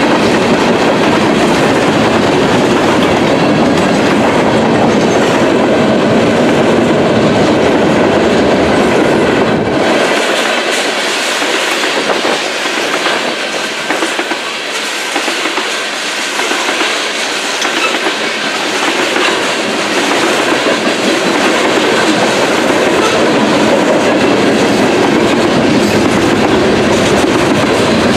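Mixed freight train rolling past at close range, its wheels clacking steadily over the rails. The deep rumble thins out for about ten seconds partway through, then comes back.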